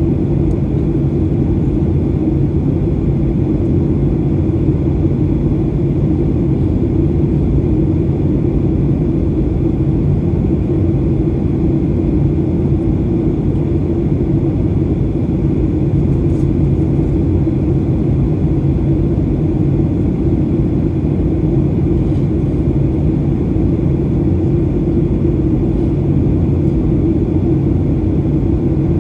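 Steady cabin roar of a Boeing 737-800 in flight, from its CFM56-7B engines and the airflow, heard from inside the passenger cabin. It holds an even low hum with no change in pitch or level.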